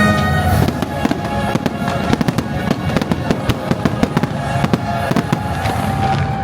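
Fireworks bursting and crackling in quick succession over orchestral show music with held notes.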